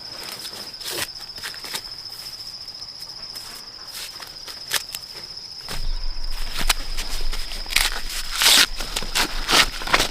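A steady, high insect drone runs under scattered clicks and rustles. From about six seconds in, louder rustling and scuffing come in bursts.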